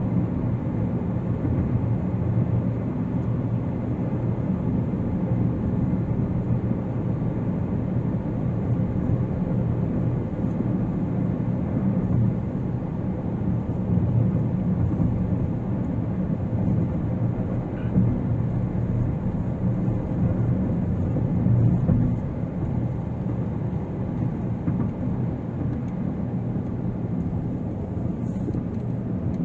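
Car driving steadily at road speed: a constant low hum of engine and tyre noise on a concrete road surface.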